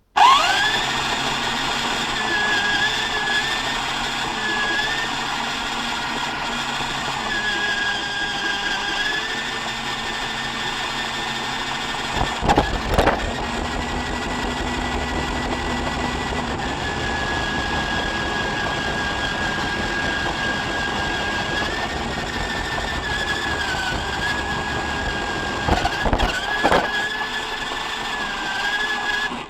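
R/C model truck running: a motor sound that starts abruptly with a quick rising whine, then runs steadily with a whine that dips and rises in pitch several times. Knocks come a little under halfway through and again near the end.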